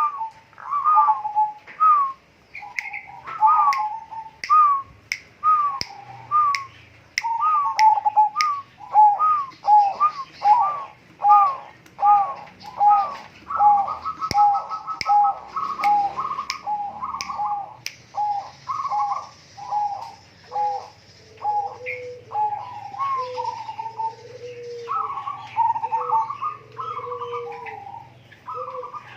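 A bird calling over and over in short arched notes, about two a second, breaking into a brief rapid trill about halfway through. Lower notes join in during the second half. Sharp clicks sound among the calls in the first half.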